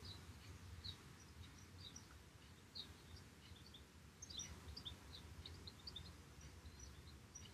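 Near silence: faint, scattered high chirps of small birds over a low steady room hum.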